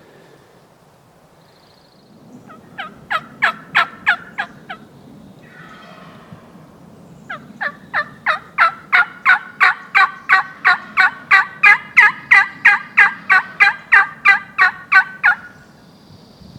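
Turkey yelping: a short run of about eight yelps, then after a pause a long, evenly paced run of some two dozen yelps, about three a second, growing louder.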